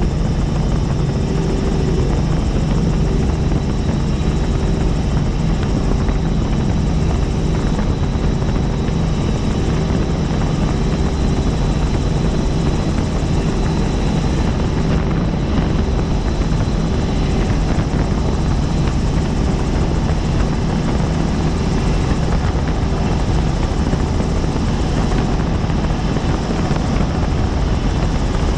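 Helicopter in flight, heard from on board: a steady, loud rotor and turbine noise with a constant low drone and a faint high whine.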